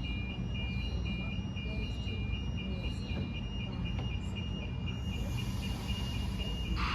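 Level crossing warning alarm sounding: an electronic two-note tone alternating high and low about twice a second, over the low, steady rumble of a train running.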